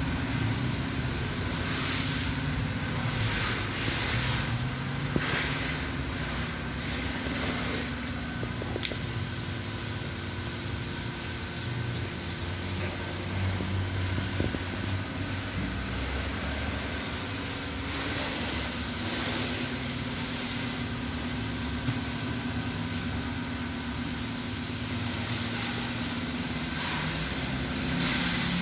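Steady mechanical running noise: a constant low hum with a hiss over it and a few faint clicks.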